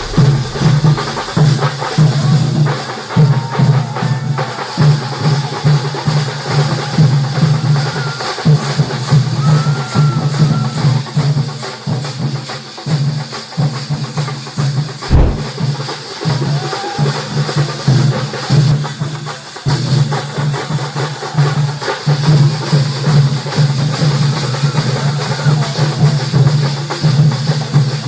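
Traditional Thambolam percussion: an ensemble of drums beating a loud, driving rhythm without pause, with a single heavier knock about halfway through.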